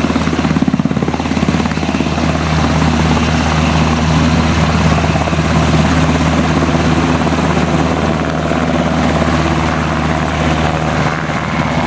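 Twin-turbine military helicopter running on the ground, with a steady loud engine hum and a fast rotor chop, plainest in the first couple of seconds.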